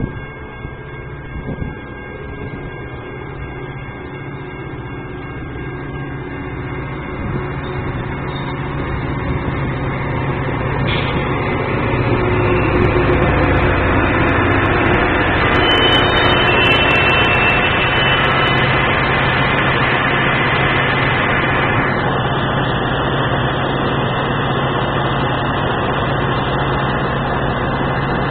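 Diesel-hauled Metra commuter train running in along the station platform: the locomotive and bilevel gallery cars rumble past, growing louder over the first ten seconds or so and then holding a steady, heavy drone as the train slows to a stand.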